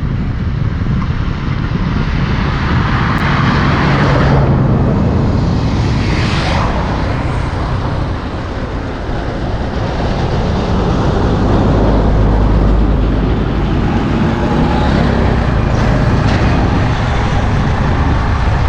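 Road traffic noise: a steady rumble of passing vehicles, swelling as they go by about 4, 6 and 12 seconds in.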